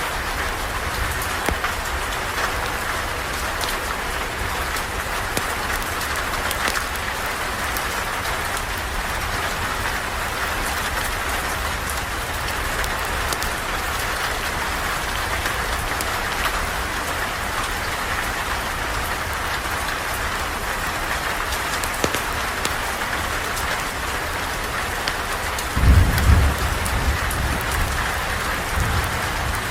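Steady rain falling, with a low roll of thunder near the end.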